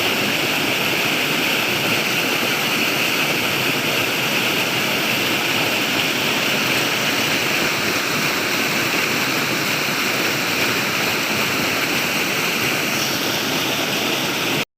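Flowing water rushing steadily, like a stream or small waterfall, a constant hiss strongest in the upper range. It cuts off abruptly just before the end.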